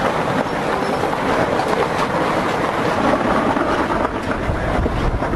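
Dust-storm wind buffeting the microphone: a loud, steady rush with heavy low rumble that swells about four seconds in.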